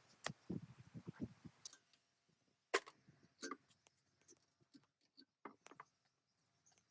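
Scattered, irregular light knocks and clicks, with the loudest knock nearly three seconds in.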